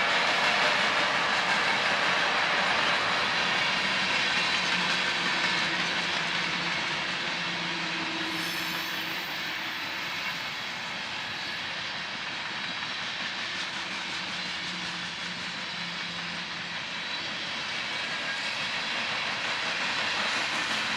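Train rolling past: a steady rush of wheels on rail, easing a little in the middle and building again near the end.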